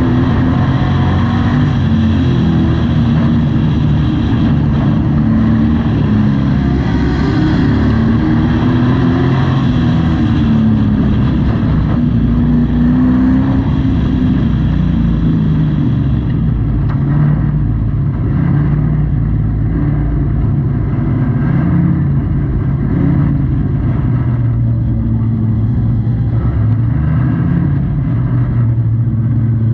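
Race truck's engine heard from inside the cab at racing speed. It runs continuously and loud, its pitch rising and falling over and over as the throttle is opened and lifted.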